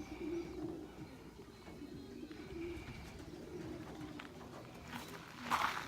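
Racing pigeons cooing in a loft, a low continuous warbling from several birds, with a short rustling burst near the end.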